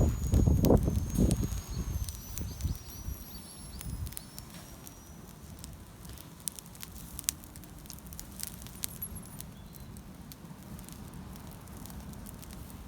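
Wood campfire crackling, with scattered sharp pops and snaps over a low, steady hiss. A louder low rumble fills the first couple of seconds before settling.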